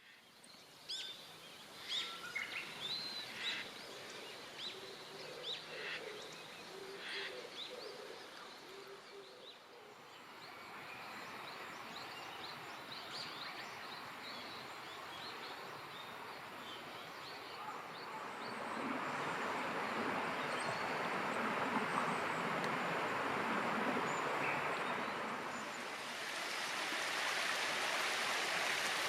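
Small birds chirping and calling repeatedly for the first ten seconds or so. Then a steady rush of running water that grows louder about two-thirds of the way in.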